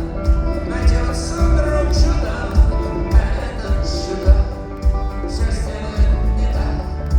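Rock band playing live, with heavy bass and drum hits under sung vocals.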